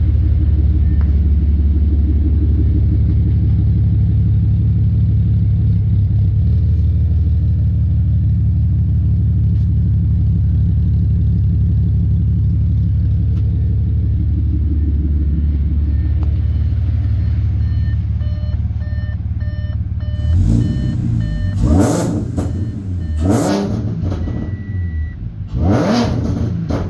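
Supercharged 3.0 V6 of a modified Audi Q5 running through long-tube headers, no catalytic converters and a custom resonated dual exhaust: it idles steadily, then is revved in four quick throttle blips over the last several seconds. A repeating electronic beep sounds along with the blips.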